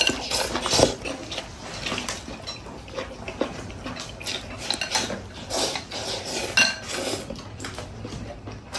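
Eating utensils clicking and clinking irregularly against a bowl while noodles are eaten.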